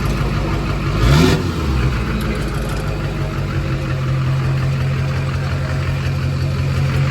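Straight-piped 2001 Duramax LB7 6.6-litre turbo-diesel V8 idling steadily, with one short rev of the throttle about a second in.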